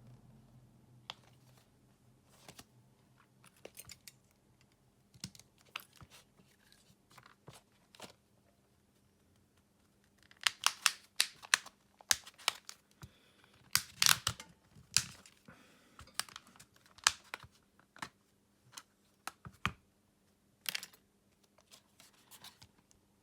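Scattered sharp clicks, taps and light scratches of a smartphone's plastic parts and small tools being handled during disassembly. About ten seconds in comes a busy run of louder clicks lasting several seconds.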